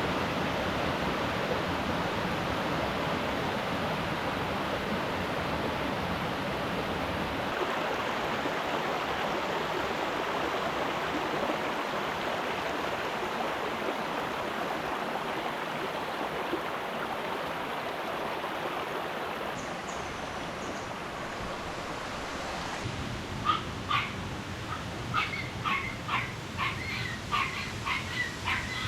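Steady rush of flowing water, then near the end a run of about a dozen short, high-pitched whimpers and yips from a small puppy.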